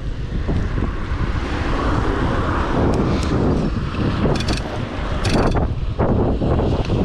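Wind buffeting the microphone of a chest-mounted action camera on a moving bicycle, a heavy steady rumble, with two short rattling bursts a little past the middle.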